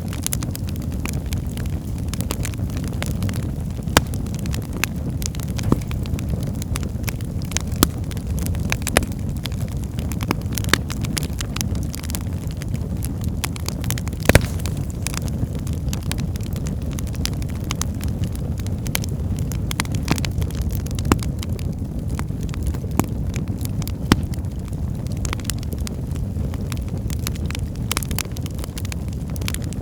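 Wood fire burning in a fireplace: a steady low rumble of flame with scattered sharp crackles and pops, one louder pop about halfway through.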